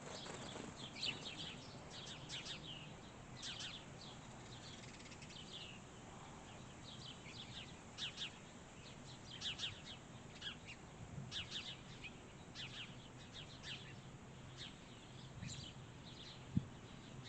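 Small songbirds chirping: many short, high, downward-sweeping chirps, some in quick clusters, spread throughout. A single sharp tap sounds just before the end.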